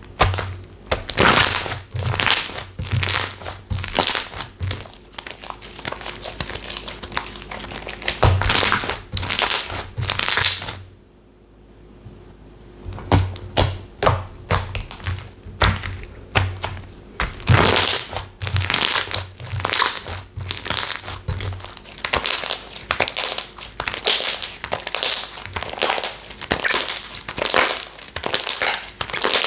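Slime being pressed and squeezed by hand, making a string of short, sharp crackly squishes about one or two a second, with a short pause just before the middle.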